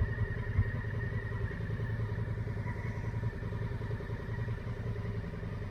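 Honda Africa Twin motorcycle engine running at low, steady revs.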